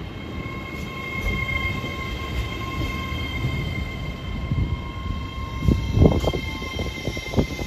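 Hitachi Class 800 Azuma electric multiple unit moving past under the overhead wires with its pantograph up. Its traction equipment gives a steady whine of several flat tones over the low rumble of the wheels, with a cluster of heavy knocks from the wheels about six seconds in and another knock near the end.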